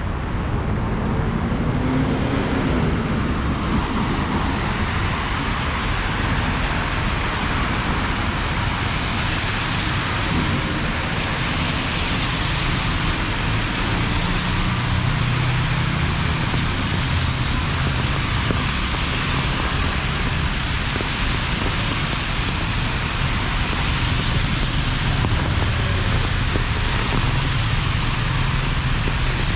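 Heavy rain falling steadily, with road traffic rumbling underneath and swelling at times as vehicles pass.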